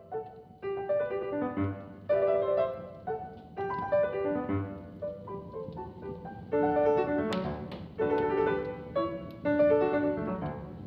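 Piano music: a slow melody of ringing notes and chords, each group struck and left to fade.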